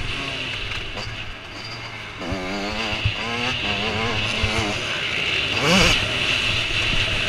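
Motocross bikes running on the track, engines revving up and down as riders shift and throttle, with one bike passing loudly about six seconds in.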